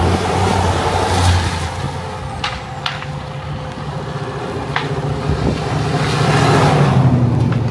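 A car driving along, its engine and tyre noise steady, with a few sharp ticks. The rush of noise swells near the end.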